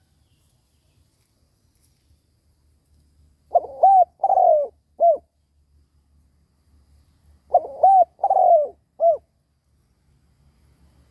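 Spotted dove singing its cooing song: two phrases about four seconds apart, each of four notes with the third one longest. It is a decoy bird's call, used to provoke wild doves into answering.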